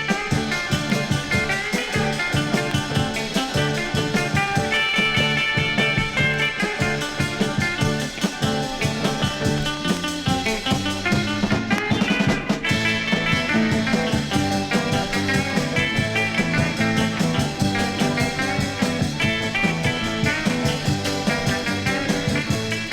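Instrumental break of a mid-1960s garage rock record: the band plays on with a steady beat and no vocals.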